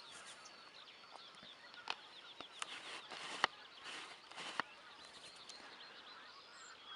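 Small wild birds chirping: a steady chorus of short, high calls, with a few sharp clicks and brief rushes of noise.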